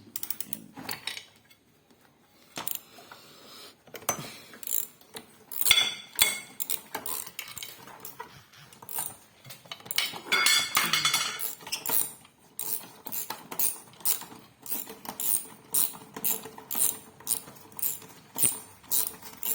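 Hand tools clicking and clanking against metal parts of a washing machine during repair. The clicks come as scattered clatter at first, then as a steady run of about two sharp clicks a second.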